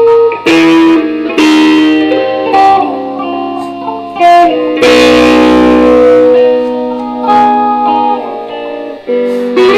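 Electric guitar played as a mix of single plucked notes and chords, each note ringing on and overlapping the next.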